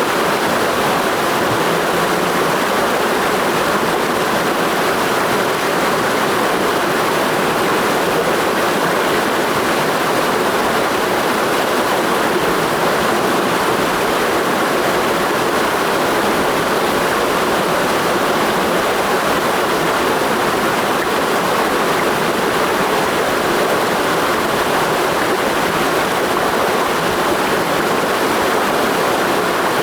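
A clear mountain stream rushing over rocks in a gorge, a steady, even rush of water with no breaks.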